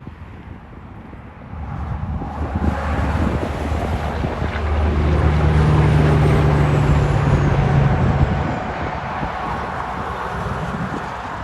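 Truck driving past: engine and road noise build up over a few seconds, are loudest about halfway through with a steady low engine note, then fade away.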